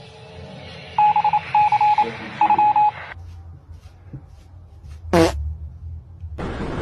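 Three short electronic beeps at one steady pitch, starting about a second in, then a single quick falling whistle about five seconds in.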